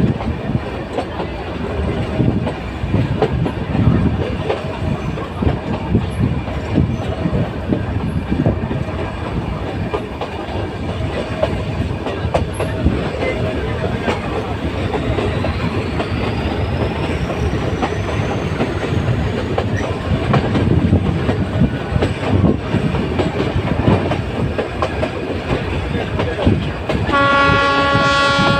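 Nilgiri Mountain Railway train running along the track: a steady clattering rumble of wheels and carriages. Near the end its horn starts sounding, one held note.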